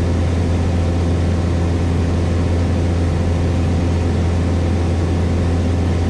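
Cessna 172S Skyhawk's four-cylinder Lycoming IO-360 engine and propeller droning steadily in cruise flight, heard inside the cabin as an even, unchanging low hum.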